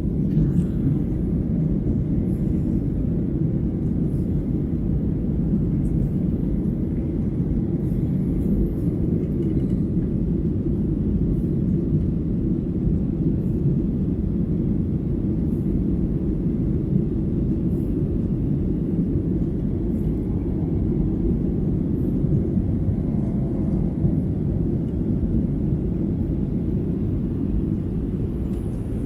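Steady low rumble of engine and airflow noise inside a jet airliner's passenger cabin, climbing out after takeoff.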